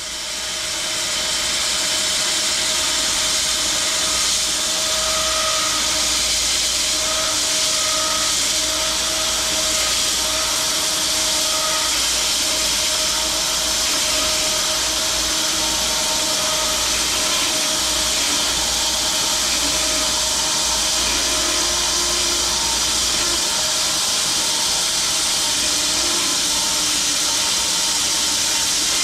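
Home-built 6-foot-wide bandsaw mill running, its band blade sawing through a large chunk of elm. A steady loud hiss with a faint whine builds up over the first second or two.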